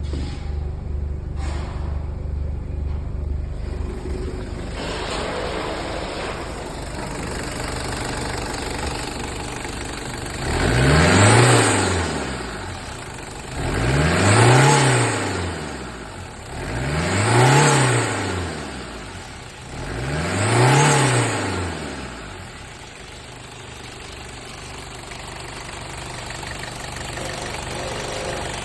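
Toyota 1KZ-TE 3.0-litre turbodiesel four-cylinder idling, then revved four times in quick blips about three seconds apart, each rising and falling back to idle, before settling to a steady idle again.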